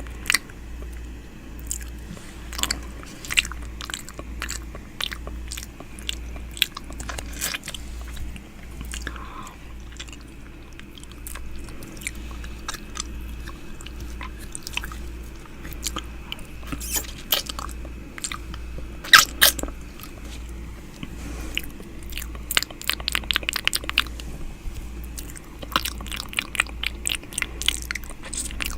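ASMR 'ear eating' mouth sounds made close to the microphone: wet lip smacks, tongue clicks and sucking, scattered at first, then in quick runs of clicks in the last several seconds.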